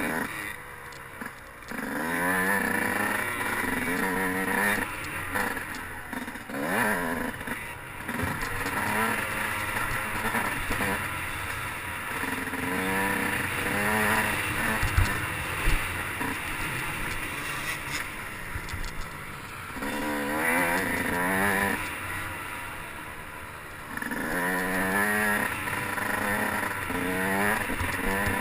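Dirt bike engine revving up and dropping back again and again while being ridden over a motocross track, the pitch climbing in repeated sweeps. There are two sharp knocks about halfway through.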